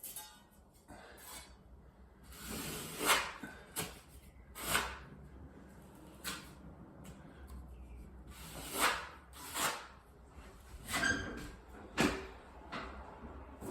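Irregular scraping and rubbing strokes, roughly one every second or two, as FibaFuse fiberglass drywall tape is laid and pressed into wet joint compound.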